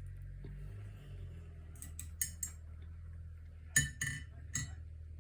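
About six light, ringing clinks of a paintbrush knocking against a hard container, in two clusters about two and four seconds in, over a steady low hum.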